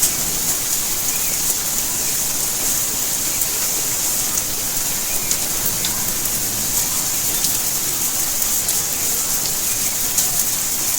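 Steady rainfall: an even hiss of rain with scattered individual drops ticking on surfaces.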